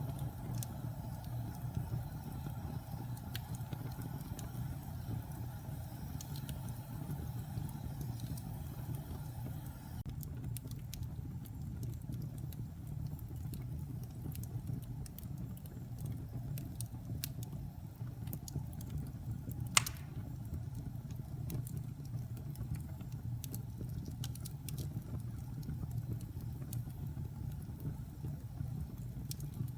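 Wood fire burning in a fireplace: a steady low rumble under scattered light crackles, with one sharp pop about twenty seconds in.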